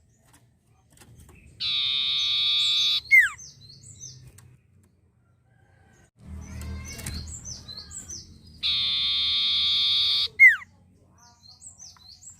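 Common iora (sirtu or cipoh) song: quick high chipping notes, then a long held buzzy whistle ending in a sharp down-slurred note, given twice.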